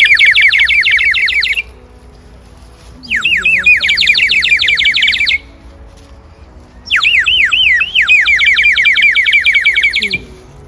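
Water-filled bird whistle blown in three warbling trills. Each trill lasts two to three seconds and is made of quick, repeated falling chirps. The first trill ends about a second and a half in, and the others come in about three and seven seconds in.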